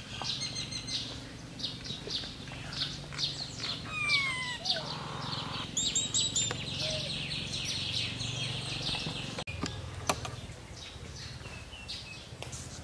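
Birds chirping and calling in a forest: many short, high chirps throughout, with a few falling whistled calls about four seconds in. A steady low drone sits underneath.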